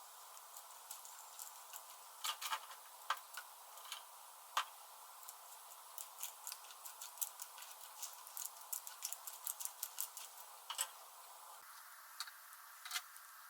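Irregular light clicks and taps of small hard objects knocking together, sometimes singly and sometimes in quick runs, thickest in the middle.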